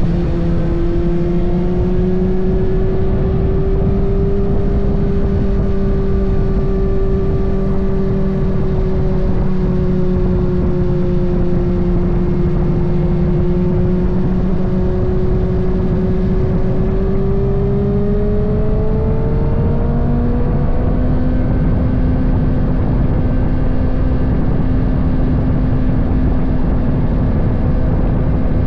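Kawasaki ZX-6R's inline-four engine running at a steady cruising speed, its pitch rising gently about two-thirds of the way through as the bike picks up speed, then holding again, over a steady low rush of noise.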